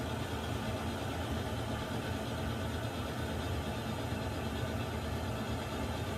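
Water heater running: a steady low hum under an even hiss, unchanging throughout.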